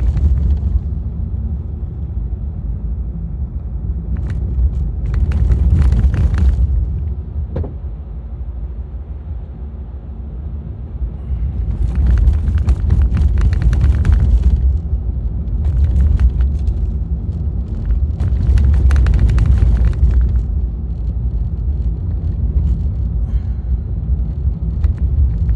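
Car cabin road noise: a steady low rumble of a car driving over a snow-rutted, bumpy road, with several stretches of clattering and knocking as the car jolts over the ruts.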